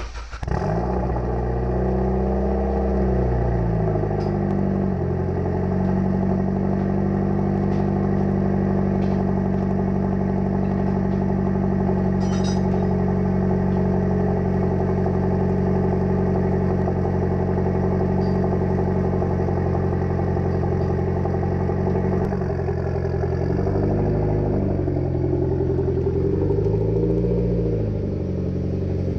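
Mitsubishi Lancer Evolution X's turbocharged 2.0-litre four-cylinder starting through a freshly fitted 3-inch straight-pipe exhaust, muffled only by a resonator in the test pipe. It catches at once, flares up and settles to a steady idle, then is revved lightly twice near the end.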